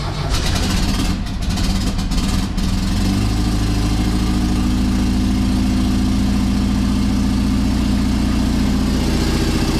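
1956 Volkswagen Beetle's air-cooled flat-four running right after a cold start: ragged and a little faster for the first three seconds or so, then settling into a steady idle.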